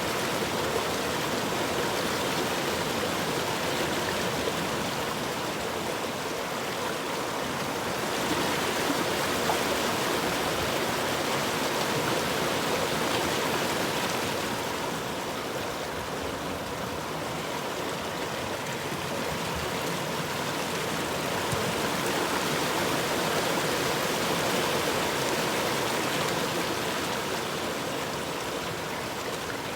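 Steady rush of a flowing river, its level swelling and easing slowly.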